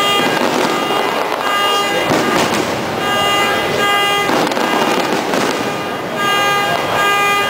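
Fireworks bursting and crackling over a dense, continuous din, while horns sound again and again in short honks.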